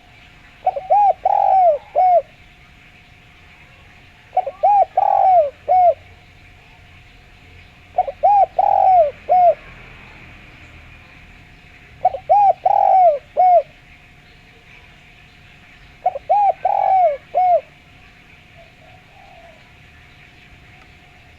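Spotted dove (derkuku) cooing: five phrases of several quick, clear coos each, about one every four seconds.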